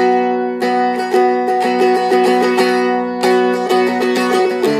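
Seagull Merlin M4, a four-string dulcimer-style instrument, strummed in a steady rhythm on a B chord, its open strings ringing under each stroke. The chord shifts near the end.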